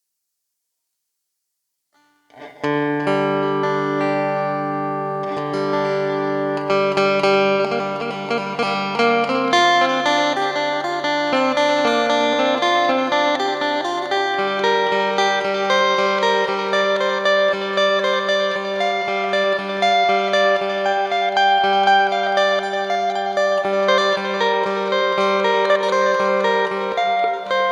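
Electric phin, the Thai lute, played through an amplifier: a lively plucked melody over steady low drone notes, starting about two seconds in.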